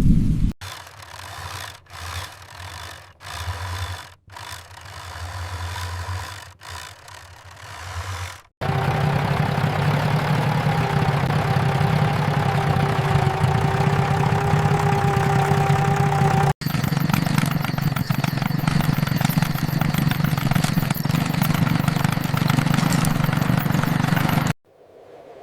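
Truck engine sound running steadily with a held whine over it, after a quieter, choppy stretch; the sound cuts off abruptly several times.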